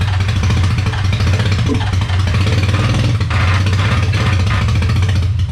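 Rebuilt Nissan VQ35DE 3.5-litre V6, just started for the first time and running loud and steady through open headers. It is not running right, which the builder puts down to vacuum leaks.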